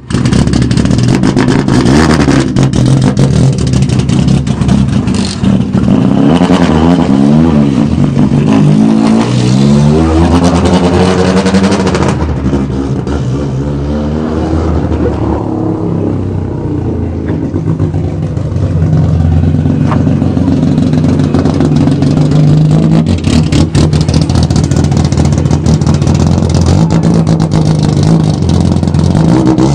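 Naturally aspirated Nissan S13 Silvia with high-lift cams and a side-exit exhaust, its inline-four engine revved up and down several times, then settling to a quieter stretch around the middle before running steadily again.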